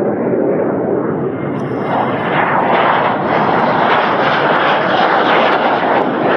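Dornier Alpha Jet turbofan engines at high power, a loud steady rushing scream that grows louder and brighter about two seconds in.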